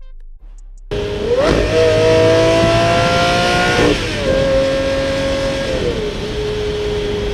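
Lamborghini Murciélago V12 engine accelerating hard, starting abruptly about a second in. The revs climb, the pitch drops suddenly about four seconds in at a gear change, climbs again, then falls and settles to a steady drone near the end.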